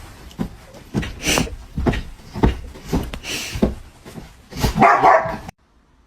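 A dog barking several times in separate short barks, then the sound cuts off suddenly near the end.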